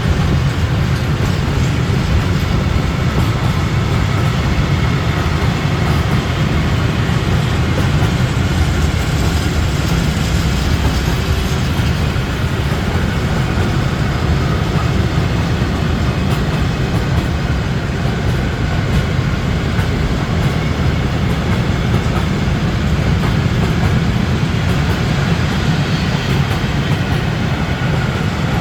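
A train passing through a station on the rails, a loud, steady rumble of wheels and running gear that holds for the whole stretch.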